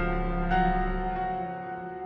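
Slow, sad background music of sustained keyboard chords. A new chord starts about half a second in, then the sound fades toward the end.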